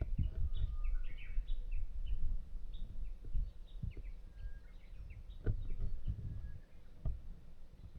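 Small birds chirping: many short, high, falling calls in quick succession, over a low rumble with a few dull knocks, the strongest about five and a half seconds in.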